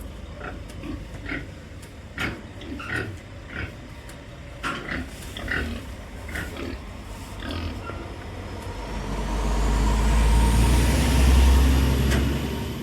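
Pregnant gilts grunting in short repeated calls, then a low engine rumble with a rising whine builds over the last few seconds and is loudest near the end.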